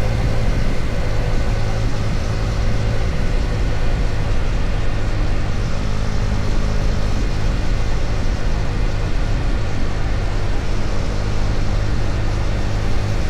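KTM Duke 250's single-cylinder engine running steadily at cruise, with road and wind noise, heard from a helmet-mounted camera.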